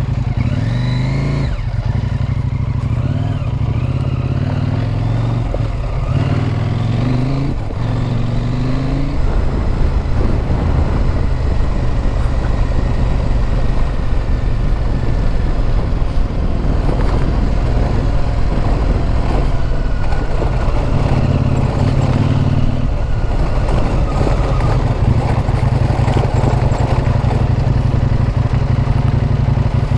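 Motorcycle engine under way, revving up and dropping back through several gear changes in the first nine seconds or so, then pulling at a steadier speed.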